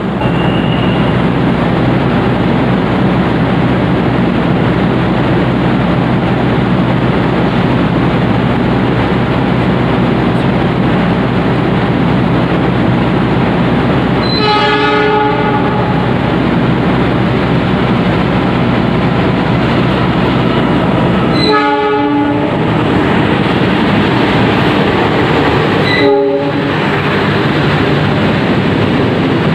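Diesel locomotive of an arriving passenger train sounding its horn three times, a blast of about a second and a half, a second one about seven seconds later and a short toot some four seconds after that, over a steady loud train rumble.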